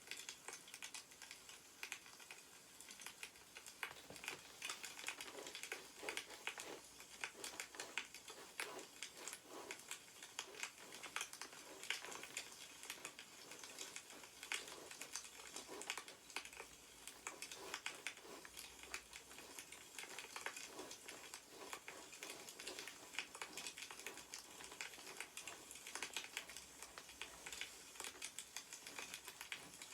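Faint crackling of a burning wood fire: a dense, continuous run of small snaps and pops.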